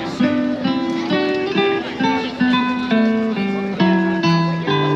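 Acoustic guitar music: plucked single notes played in a quick, steady run, several a second.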